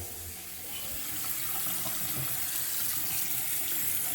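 Faucet running a steady stream of water into the sink, its newly replaced cartridge being tested after the drip repair.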